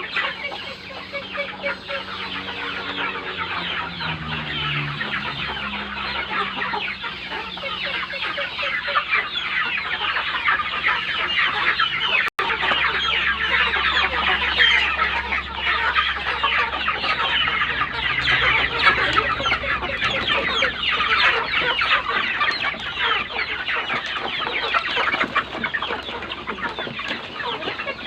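A large flock of native and heritage-breed chickens clucking and calling continuously, many birds at once. A low steady hum runs beneath, and the sound drops out for an instant about twelve seconds in.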